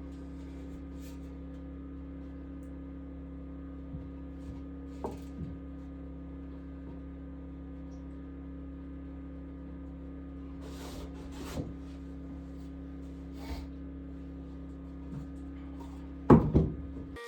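Scattered light knocks and clicks over a steady low hum, then a louder double knock with a short ringing near the end.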